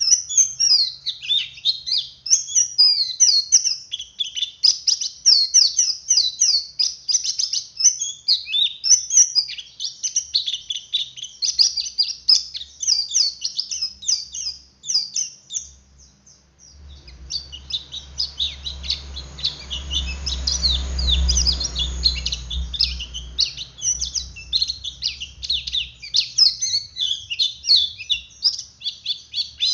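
Male white-eye (pleci) in a fast, continuous twittering chatter of high, rapid chirps. The chatter breaks off briefly a little past halfway, then resumes over a low rumble.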